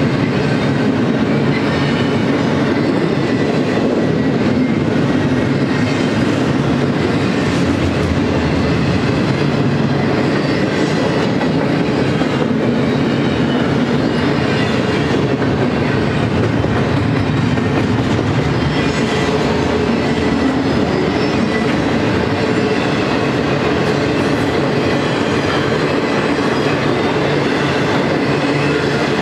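Freight cars of a BNSF intermodal train rolling steadily past, double-stack container well cars followed by trailer-carrying flatcars, their steel wheels clattering over the rail joints in a constant loud rumble.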